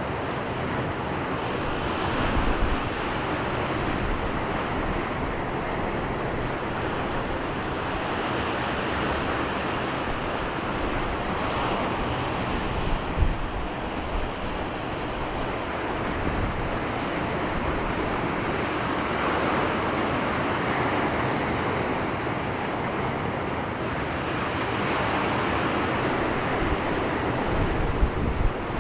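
Sea surf washing onto the shore, a continuous rush of noise that swells as each wave breaks every several seconds. Wind buffets the microphone in low rumbling gusts.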